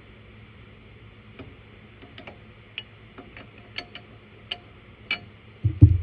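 Metal wrenches clinking on the cable jam nuts of a tractor loader control valve, a string of sharp irregular clicks while the nuts are worked loose, then a couple of heavier thumps near the end.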